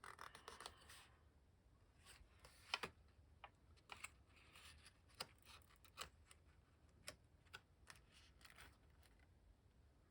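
Faint, scattered light taps and rustles of paper and card being handled and laid in place on a tabletop.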